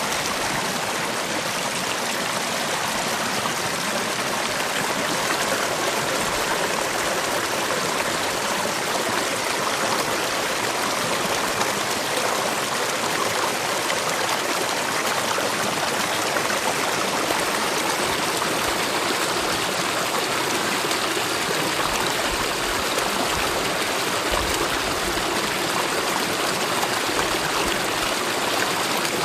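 Mountain valley stream flowing steadily over rocks, a continuous even water noise with no breaks.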